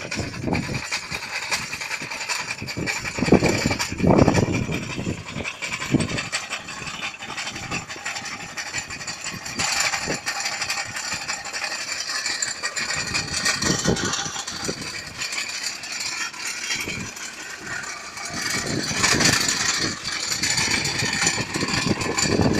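Tractor engine running, with the digger's machinery rattling and clanking irregularly.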